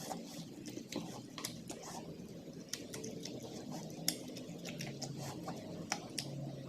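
Close-up chewing and mouth sounds: irregular wet smacks and sharp clicks of food being eaten, several a second.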